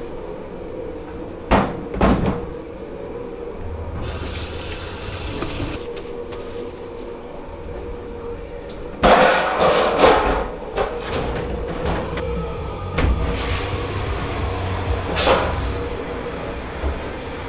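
Dishwashing in a commercial kitchen: bursts of spraying water and clattering dishes and pans over a steady hum. The water hisses twice, and the densest clatter comes about two thirds of the way through.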